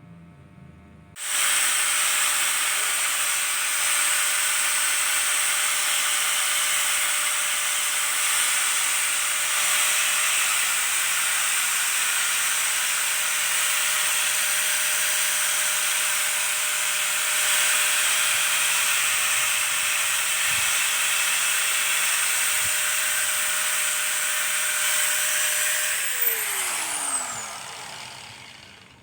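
Handheld electric power tool running steadily on PVC pipe, drilling or trimming it, with a hissing cut and a steady motor whine. It starts abruptly about a second in; near the end it is switched off and the motor's pitch falls as it spins down.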